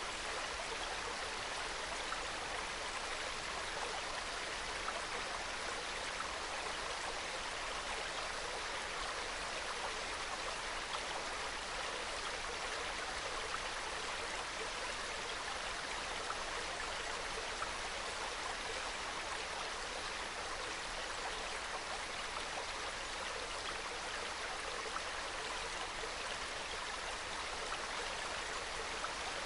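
Small mountain stream flowing and babbling over rocks: a steady, even rush of water with no breaks.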